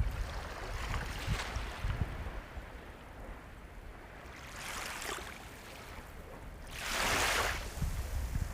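Sea waves washing in: a steady wash with a low rumble, a surge about five seconds in and a louder one about seven seconds in.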